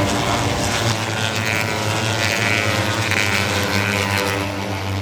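Steady engine drone holding a constant low pitch, over a background of crowd and venue noise.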